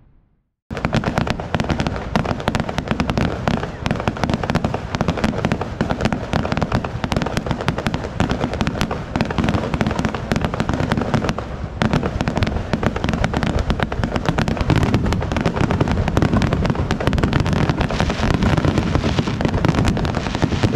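Fireworks finale barrage: aerial shells bursting in rapid, overlapping succession, a dense continuous crackle and booming with no gaps. It starts abruptly under a second in.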